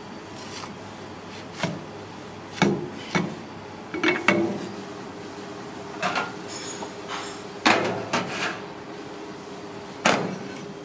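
Kitchen work: about nine sharp, irregularly spaced knocks on wood, like chopping on a wooden board, over a steady low background hum.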